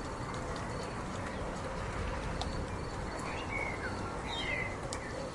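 Steady rain hiss with scattered sharp drop clicks, and a bird giving a few short chirps between about three and four and a half seconds in.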